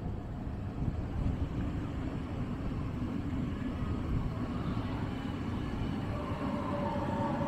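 A train moving through the station platform area with a steady low rumble; about six seconds in, a steady two-tone whine comes in on top.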